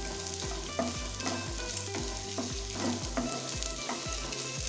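Guava pieces and green chillies sizzling in hot oil in a nonstick frying pan while being stirred with a wooden spatula.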